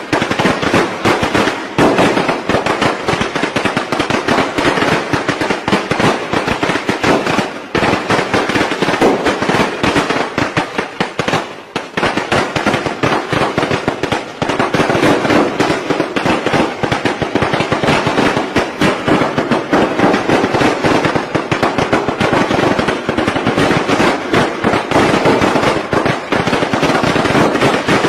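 Strings of firecrackers going off in a dense, continuous crackle of rapid bangs, with brief lulls now and then.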